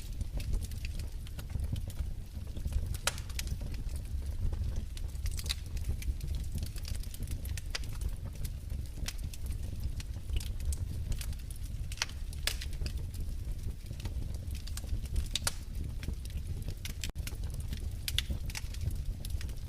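Wood fire crackling in a fireplace: scattered sharp pops and snaps at irregular moments over a steady low rumble.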